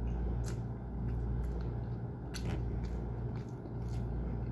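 A person chewing chicken and picking it off the bones by hand, with a few short, sharp clicks of mouth and bone through it. A steady low hum runs underneath.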